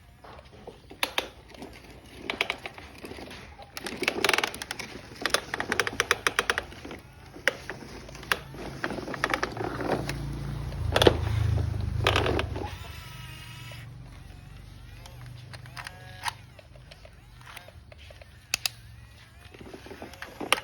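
Plastic toy trucks and a toy excavator being handled, with irregular clicks, knocks and clatter that come thickest in two spells, and a low rumble for a few seconds mid-way.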